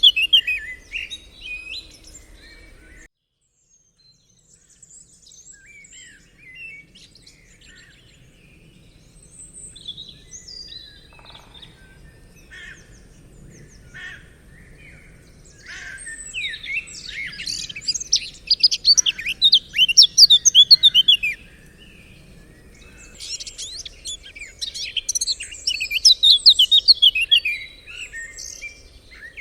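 Forest birds singing and chirping, several overlapping quick, high-pitched songs and trills that come in bursts. The sound drops out almost completely for about a second shortly after the start, then sparse calls build to two loud stretches of song in the second half.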